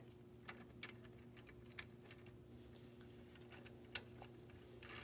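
Faint, scattered light clicks of a small plastic N-scale grain hopper being set on and rolled along model train track, over a low steady hum.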